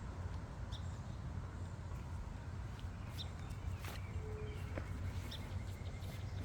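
Outdoor ambience: a steady low rumble under a few short, high bird chirps spaced a couple of seconds apart, with a sharp click about four seconds in.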